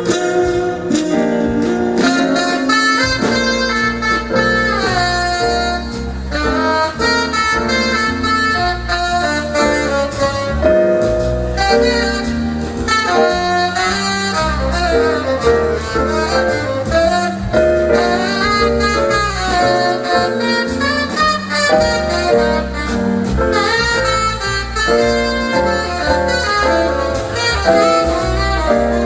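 Live jazz band playing a tune, a tenor saxophone carrying the lead over piano, bass and drums with cymbals.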